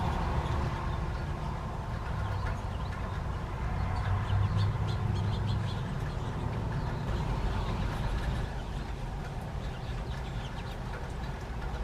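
Birds calling, many short chirps scattered throughout, over a steady low rumble.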